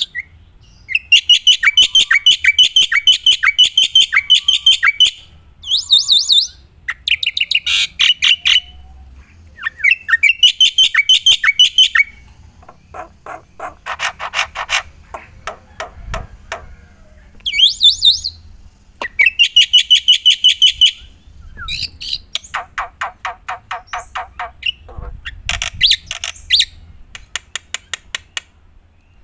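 Black-winged myna (jalak putih) singing loudly in full song: runs of rapid, repeated chattering notes lasting a second to a few seconds each, with short pauses between runs and harsher squawk-like notes mixed in.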